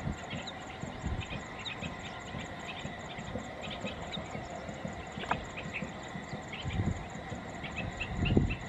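Distant passenger train approaching: a low rumble that swells and fades, loudest near the end, over a steady, rapidly pulsing insect chirp and scattered short chirps.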